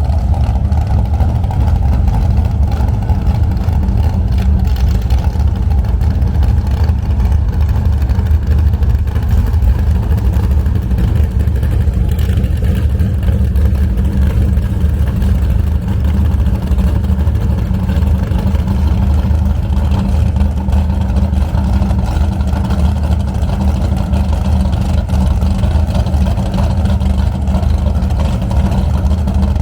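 Motorboat running steadily at speed: a constant low engine drone with rushing wind and water noise, unchanging throughout.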